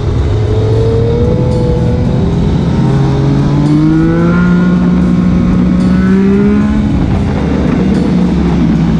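Motorcycle engines running on the move, with more than one engine note heard. Between about three and seven seconds in, an engine's pitch climbs steadily as it accelerates, over a constant rushing noise.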